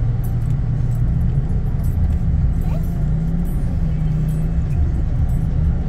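A car running in slow traffic: a steady low engine and road rumble with a constant hum.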